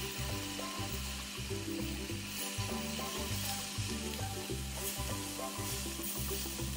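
Hakka noodles and vegetables sizzling in a hot non-stick pan as they are tossed and stirred with a wooden spatula, a steady hiss throughout. Background music with a steady low beat runs underneath.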